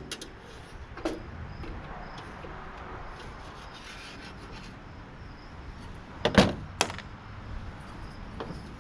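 Scattered knocks from parts being handled while a tankless water heater is taken apart: a faint knock about a second in, then a sharper knock followed by a click a moment later, over low background noise.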